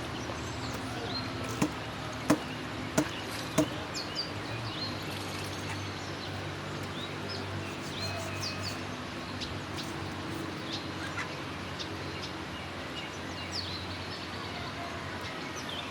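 Birds chirping with many short, high calls over a steady low hum. Four sharp knocks about two-thirds of a second apart come between one and a half and four seconds in.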